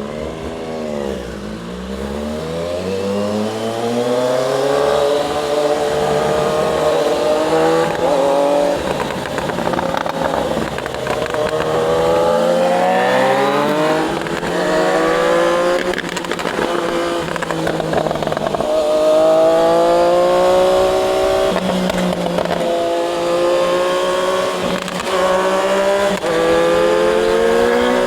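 Triumph Daytona 660's inline three-cylinder engine accelerating through the gears. The pitch climbs through each gear and drops at every upshift, over and over.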